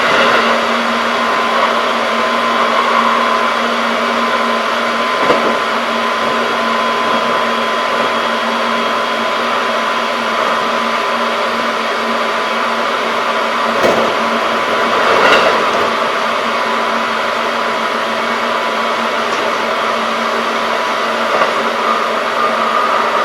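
Keikyu 1500 series field-chopper-controlled electric train running at steady speed, heard from inside the car: continuous rolling noise with a steady low hum and a thin steady whine, and a few short knocks from the track about five seconds in and twice around fourteen to fifteen seconds in.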